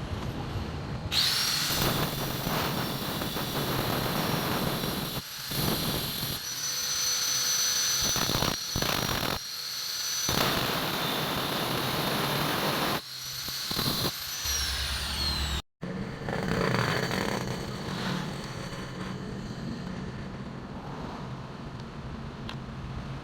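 A high-speed electric motor whining with a high steady pitch for about fourteen seconds, then winding down. After a brief cut, a quieter, lower steady machine noise runs on.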